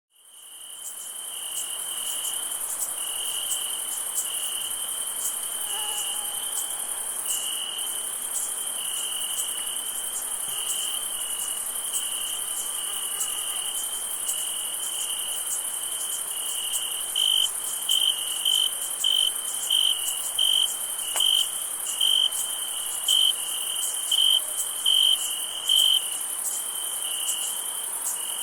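Night chorus of crickets chirping steadily, with a continuous high-pitched insect trill above it, fading in at the start. Over the second half, one nearer cricket chirps loudly about once a second.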